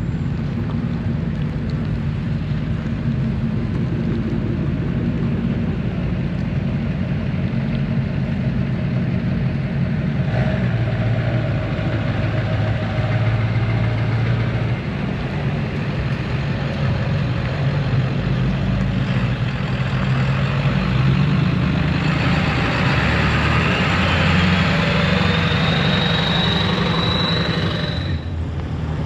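A truck engine running with a steady low rumble. Over the last several seconds a hiss builds and a high whistle rises in pitch, then cuts off suddenly shortly before the end.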